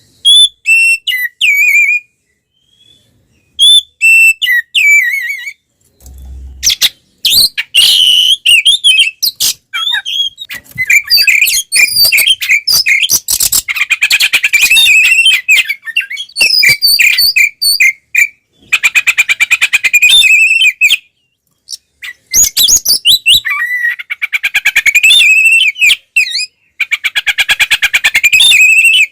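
Oriental magpie-robin (kacer) singing a loud, varied fighting song of clear whistles and rapid rattling trills. The song comes in phrases with short pauses between them.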